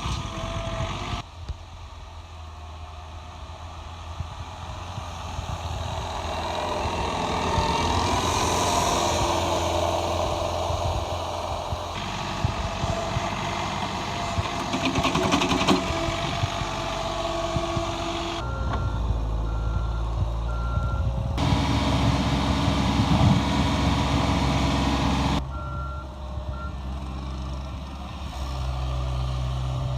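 Diesel engines of compact snow-clearing loaders working, in several cut-together stretches. A reversing alarm beeps in short runs of evenly spaced beeps, about two-thirds of the way through and again a little later.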